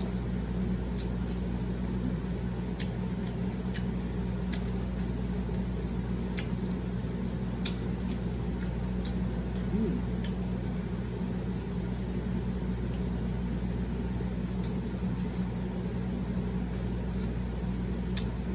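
Close-miked chewing of raw broccoli, giving scattered crisp crunches at an irregular pace over a steady low hum.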